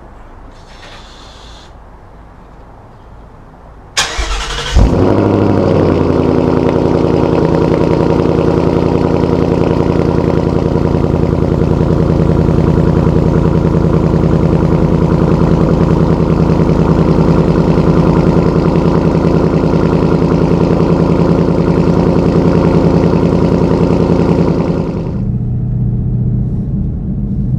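2016 Mustang GT's 5.0 V8 with a Borla S-Type exhaust starting about four seconds in after a brief crank, then idling loudly and steadily. Near the end the idle drops to a quieter, lower note.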